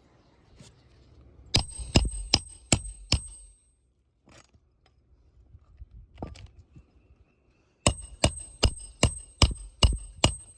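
Hand hammer driving roofing nails into asphalt shingles during a repair: a run of five quick blows, then after a pause about seven more near the end, each with a high metallic ring.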